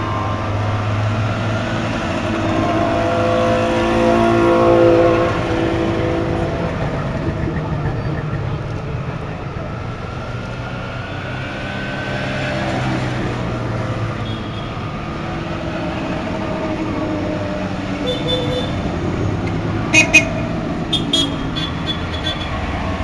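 Goggomobil microcars with small two-stroke twin-cylinder engines driving past one after another at low speed, the closest and loudest about four seconds in. A few short horn toots near the end.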